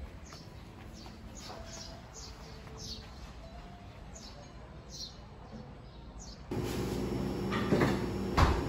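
Small birds chirping: repeated short, falling high notes, two or three a second. About six and a half seconds in this gives way to a louder indoor hum with a couple of sharp knocks.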